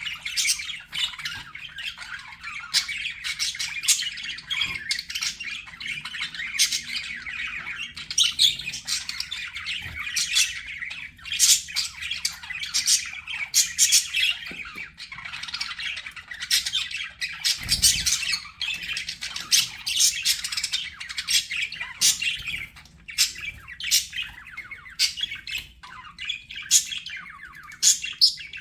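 Budgerigars chattering: a continuous warbling twitter with many sharp, high squawks and chirps overlapping throughout. A short low thud is heard about two-thirds of the way through.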